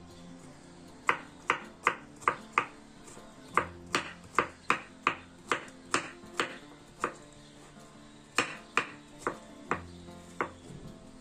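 Chef's knife chopping zucchini into small cubes on a wooden cutting board: sharp knocks of the blade on the board in three quick runs of several strokes, about three a second, with short pauses between. Soft background music plays underneath.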